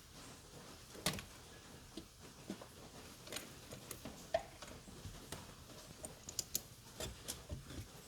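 Irregular light clicks and taps of tools and parts being handled during car repair work, with a sharper knock about a second in and a cluster of quicker clicks in the second half.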